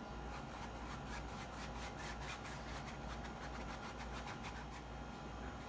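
Paintbrush scrubbing acrylic paint onto canvas in quick, scratchy back-and-forth strokes, over a steady low hum.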